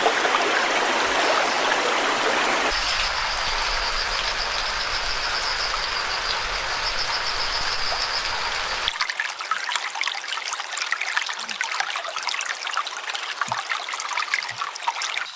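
Running water of a stream, in three spliced takes that change abruptly about three and nine seconds in. A steady, pulsing high trill sounds over the middle take, and the last take is a crackly trickle.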